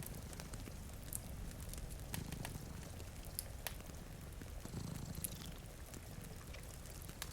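Cat purring, rising and falling in slow swells a couple of seconds apart, over the sharp scattered crackles of a wood fire and a steady hiss of rain.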